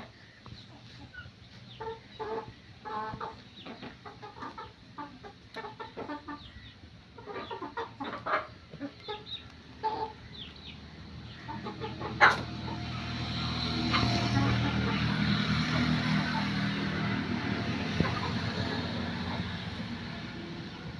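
Chickens clucking in many short calls for about eleven seconds. Then a sharp knock, and a steady low noise that swells, peaks and slowly fades over the rest.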